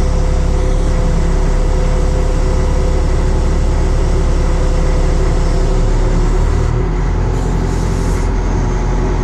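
Caterpillar 215 excavator's diesel engine running steadily and loud, with a slight drop in level about seven seconds in.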